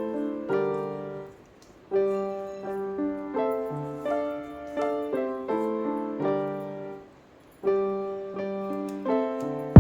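Background music: a gentle solo piano playing single notes one after another, each fading after it is struck, with two brief pauses.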